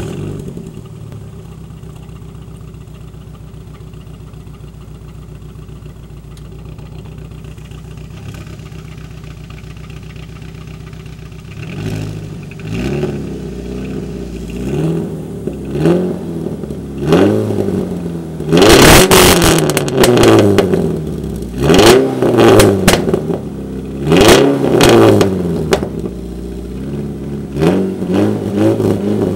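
Dodge Neon SXT's four-cylinder engine starting, idling steadily for about ten seconds, then revved again and again in short blips through its mufflers, the hardest revs about two-thirds of the way in.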